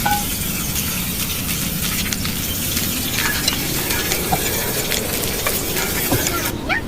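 Food frying in a pan: a steady sizzle dotted with many small crackles and pops. A few brief high squeaks cut through, one rising near the end.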